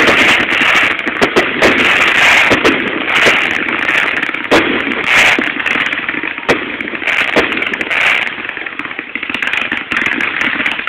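Fireworks going off: a fast run of sharp bangs and crackling, thinning out over the last few seconds.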